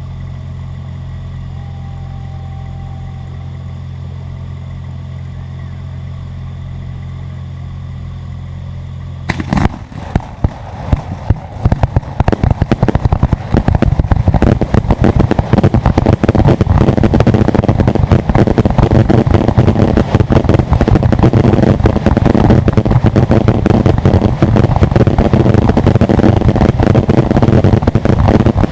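A steady low hum for about nine seconds. Then fireworks start going off in a rapid, dense barrage of bangs that keeps on without a break and is much louder than the hum.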